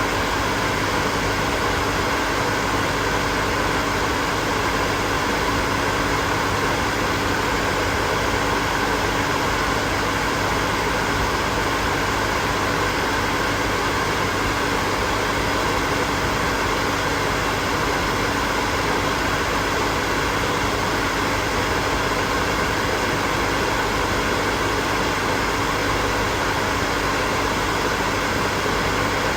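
Hair dryer running continuously: a steady whooshing rush of air from its fan, with a faint steady hum, unchanging throughout.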